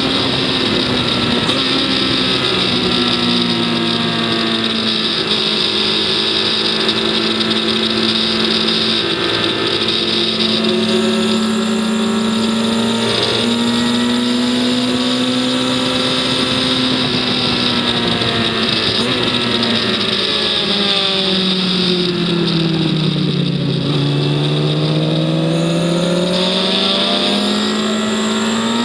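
On-board sound of a racing vehicle's engine at sustained high revs, with wind rushing past. The engine note holds high with a few brief breaks, then about three quarters of the way in drops steeply as the vehicle slows and climbs back up as it accelerates again.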